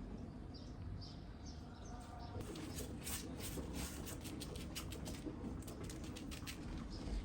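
Faint bird chirps in the background, then from about two and a half seconds in a quick run of small clicks and rustles that goes on to near the end.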